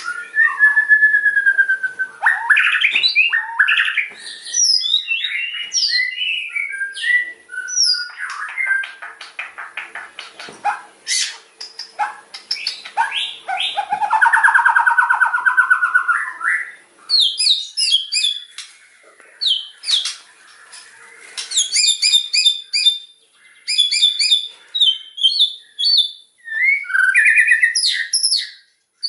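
White-rumped shama (murai batu) singing loudly: a varied run of clear whistles, chattering notes and fast trills, with a long loud trill about fourteen seconds in.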